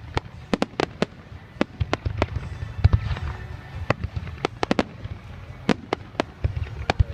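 Fireworks display: a rapid, irregular string of sharp bangs and cracks from exploding aerial shells over a low rumble, with a denser cluster about three seconds in and another near the end.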